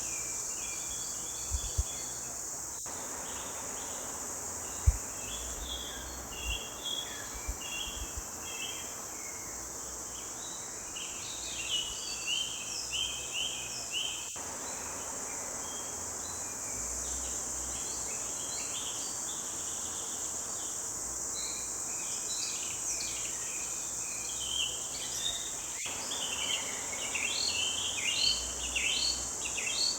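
Several songbirds chirping and singing in a forest over a steady high-pitched insect drone, with the birdsong busier in the last few seconds. A few low thumps fall in the first several seconds, the loudest about five seconds in.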